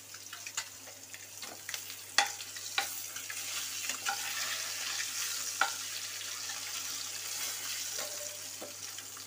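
Boiled eggs and potato pieces sizzling as they fry in hot oil in a kadai, the sizzle growing louder a few seconds in. A spatula clicks and scrapes against the pan now and then, with one sharp knock about two seconds in.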